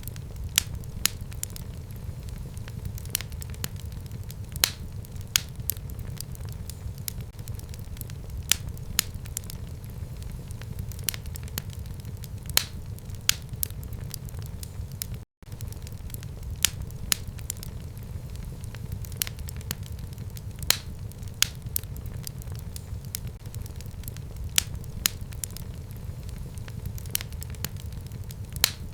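Wood fire burning in a home fireplace: a steady low rumble of flame with sharp, irregular crackles and pops several times a second. There is a split-second dropout about halfway through.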